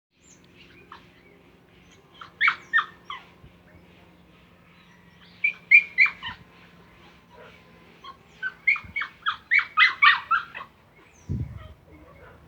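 Sharp, repeated animal calls in three bursts, each burst a quick run of short yelps or cries, with a faint steady hum underneath. A short low rumble, like wind or handling on the microphone, comes near the end.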